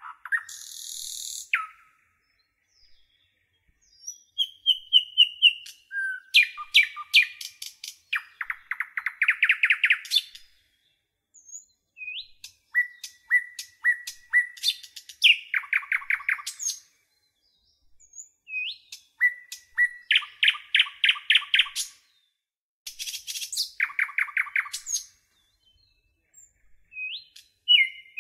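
Birdsong: phrases of chirps, repeated whistled notes and fast trills come every few seconds, with dead silence between them.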